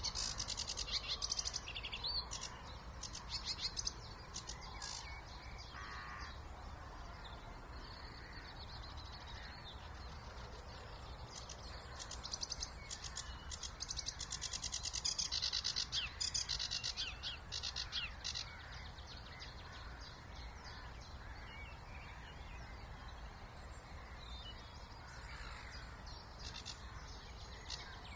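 Wetland songbirds singing in spring, with bursts of fast, chattering high-pitched song at the start and again from about twelve to eighteen seconds in, over a faint steady low rumble.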